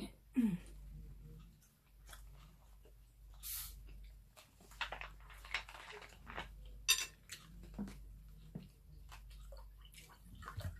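A person chewing and eating, with many scattered short clicks and crunches.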